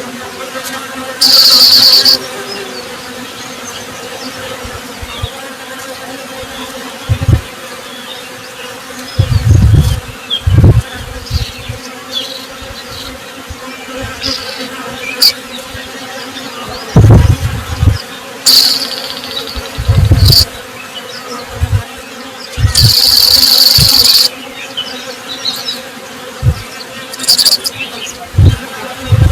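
Honey bees buzzing in a steady hum. Louder low buzzes come and go several times, and a few short bursts of high-pitched hiss break in over the hum.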